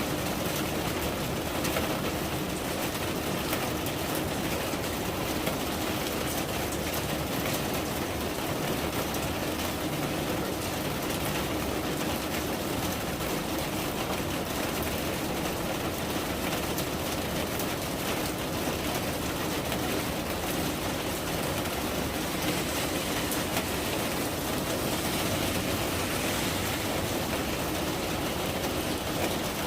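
Steady rain falling: an even, unbroken hiss across all pitches with no letup.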